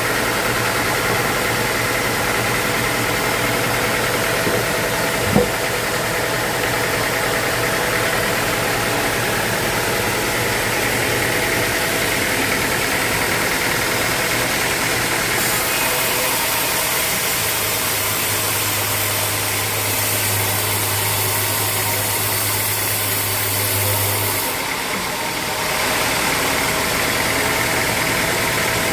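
Sawmill machinery running steadily with an engine-like drone. There is one sharp knock about five seconds in, and a high hiss with a low hum joins for several seconds past the middle before the sound briefly dips.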